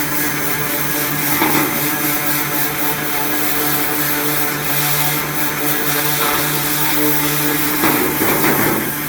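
Ryobi 1900 PSI electric pressure washer running with a steady motor-and-pump hum, its water jet hissing as it blasts grease off the grill's drip pan. The spray noise swells briefly a couple of times, once about a second and a half in and again near the end.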